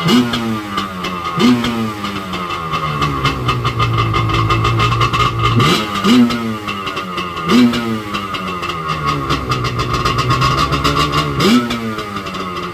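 Yamaha Wave Venture jet ski's two-stroke engine running, blipped several times: the pitch jumps up sharply and sinks back each time, settling to a steady run in between.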